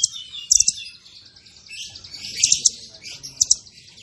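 Songbird singing fast and dense: quick runs of high, sharp chirps come in several bursts, with softer twittering between them.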